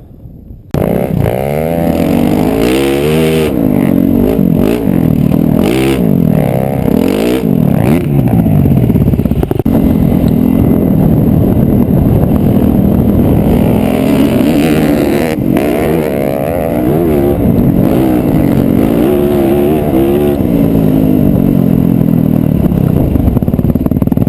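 Dirt bike engine being ridden hard, revving up and dropping back again and again as the rider accelerates and shifts, with a few sharp knocks from the bike along the way. The engine starts abruptly at a cut, about a second in.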